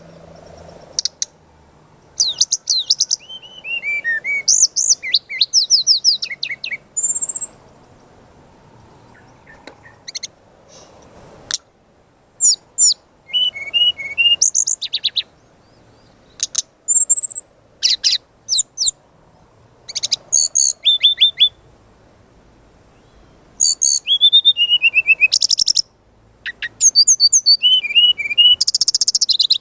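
Brown-chested jungle flycatcher singing energetically, in phrases of sharp high whistles, rapid trills and quick runs of falling notes, separated by short pauses.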